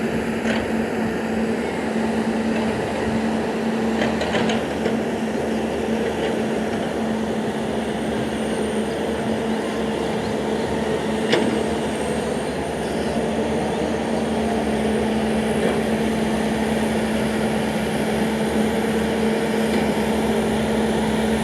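A vehicle engine running steadily: a constant hum over an even rush of noise, with a few light clicks and one sharper click about eleven seconds in.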